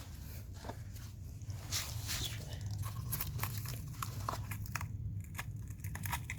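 Faint scattered clicks and crackles of hands working a brittle old oil filter element, trying to pull it off its plastic housing cap, over a low steady hum.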